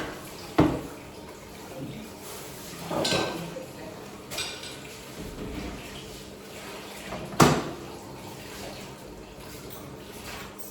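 Dishes and cutlery being handled: a few sharp knocks and clinks with short rattles between, the loudest knock about seven seconds in.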